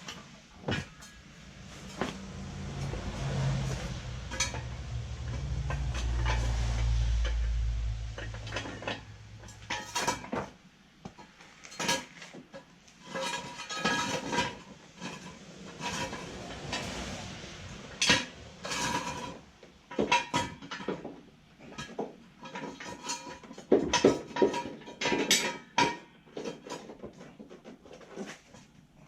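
Hand tools and metal parts clinking and clanking, irregular sharp knocks throughout, with a cluster of louder clanks about three-quarters of the way through. For the first third a low rumble swells and fades underneath.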